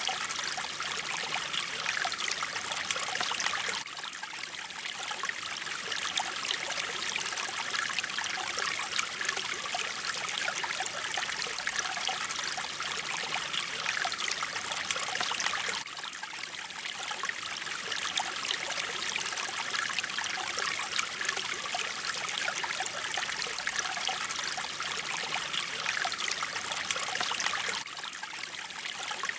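Mountain stream flowing, a steady rush and trickle of water, dipping slightly in level about every twelve seconds.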